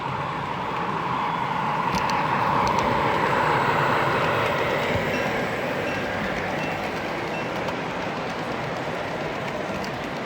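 Model train running past on a layout, its motor and wheels on the track growing louder to a peak about three to four seconds in, then easing off a little.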